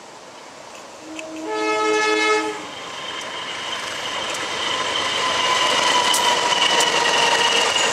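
A CC 203 diesel-electric locomotive sounds its horn once for about a second and a half. The passenger train then passes close by at speed, its engine and wheels on the rails growing steadily louder, with a steady high whine and a few sharp clicks.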